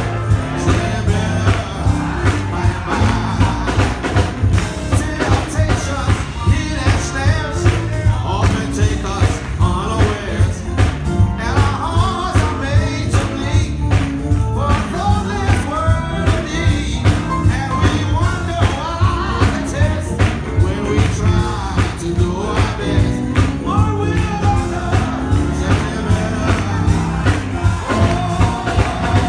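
Live gospel music with a steady drum beat, playing through a hymn medley.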